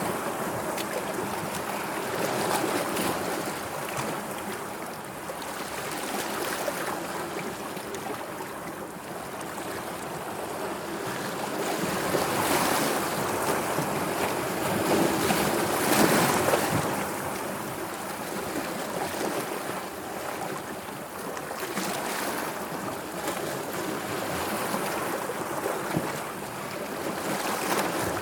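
Sea waves washing and lapping, a steady rush of water that swells and eases every few seconds, with the largest surge about a quarter of a minute in.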